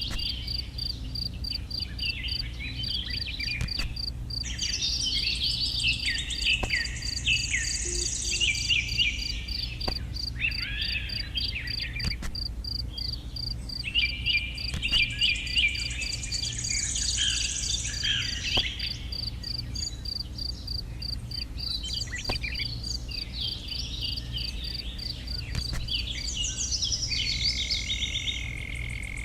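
Birds chirping in bursts over a steady, rapidly pulsing insect trill, with a low steady hum underneath. A held high note joins near the end.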